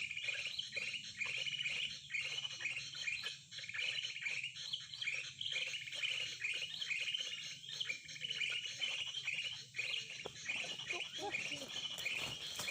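Small birds chirping in a rapid, continuous run of short, high repeated notes.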